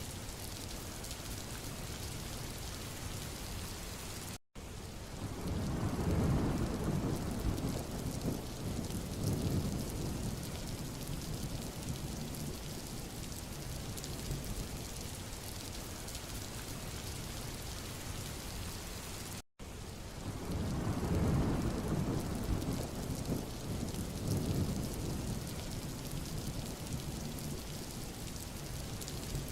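Steady rain hissing on a road surface. A deep, low rumble swells up a second or so after each of two brief, sudden dropouts in the sound, about 5 s and 20 s in, and fades over several seconds.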